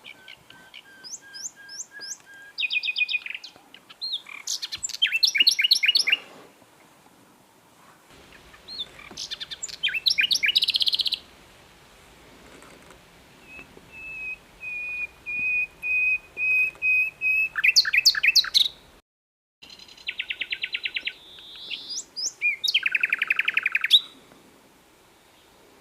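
Common nightingale singing in separate phrases with short pauses between them: fast sweeping notes and rapid trills and rattles, and in the middle a series of slow, pure whistled notes that grow louder. The song drops out completely for an instant a little past two-thirds of the way, then carries on with buzzy trills.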